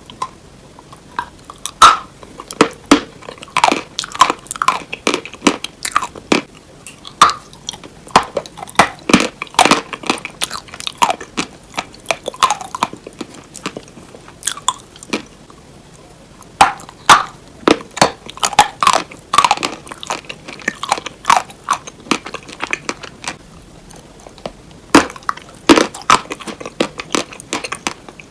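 Close-miked crunchy hard cheese being bitten and chewed: sharp, loud crunches in bursts, with short pauses between mouthfuls.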